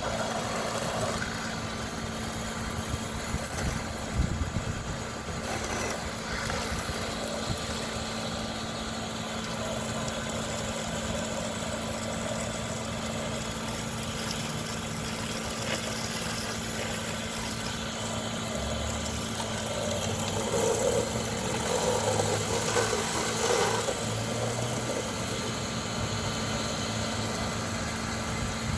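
Water spraying against vinyl house siding, over a steady motor hum with a constant low tone. The spray sounds louder and splashier for a few seconds past the two-thirds mark.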